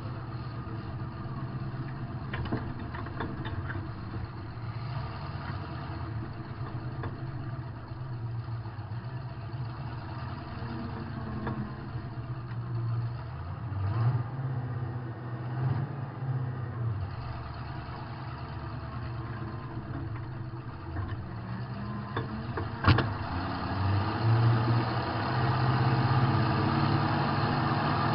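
Demolition derby car's engine running, heard from inside the cabin, its revs rising and falling as the car is driven, with a single sharp bang about two-thirds of the way through and harder revving near the end.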